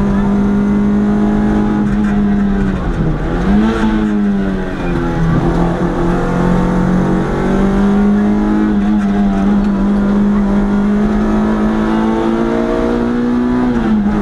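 Historic rally car's engine heard from inside the cabin, held at high revs while climbing at racing speed. The pitch dips sharply and climbs back about three seconds in and again around five seconds in, then holds steady, and falls once more near the end.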